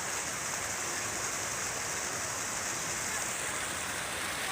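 Falling water pouring and splashing steadily, an even rushing hiss without breaks.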